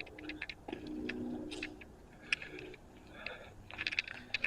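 Footsteps over a debris-strewn floor: irregular light crunches and clicks. A faint low hum is heard for a second or so near the start.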